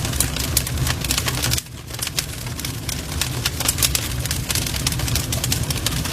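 Wood fire crackling: frequent sharp pops and snaps over a steady low rumble of burning flames. The low rumble drops out for a moment about a second and a half in.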